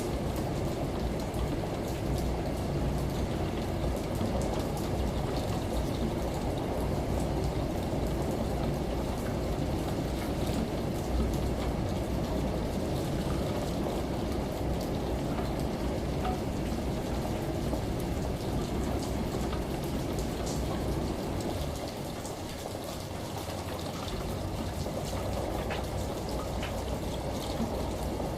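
Steady rain, with a washing machine's low rumble running underneath. The rumble weakens about three-quarters of the way through while the rain carries on.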